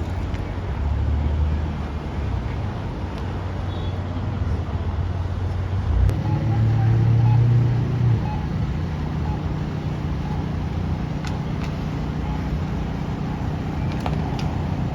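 Motor vehicle engines running steadily with a low hum, and a single thud about six seconds in, after which the engine hum is louder for about two seconds.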